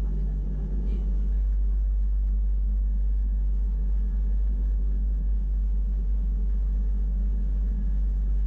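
Wengernalpbahn electric rack-railway train running, a steady low rumble heard from inside the carriage.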